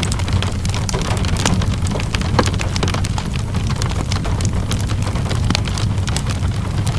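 Steady rainfall mixed with a crackling wood fire: frequent sharp pops and crackles over a constant low rumble.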